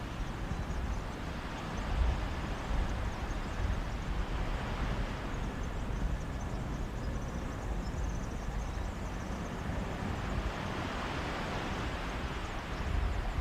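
Sea waves washing onto the beach, the hiss of the surf swelling and easing, with wind buffeting the microphone as a low rumble.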